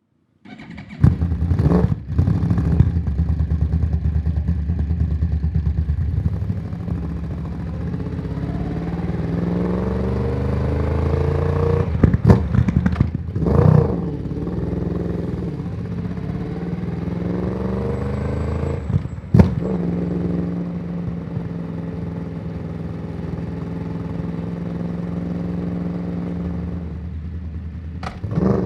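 2014 Yamaha YZF-R1 crossplane inline-four through a Yoshimura exhaust, starting up about a second in and running, with several sharp throttle blips in between steadier stretches. Its uneven firing beat sounds more like a twin than a four.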